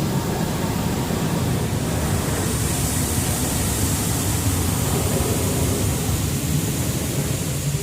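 Touchless car wash arm spraying water over a pickup truck, heard from inside the cab: a steady rushing hiss of spray on the body and roof over a low rumble, the hiss swelling a few seconds in and easing near the end.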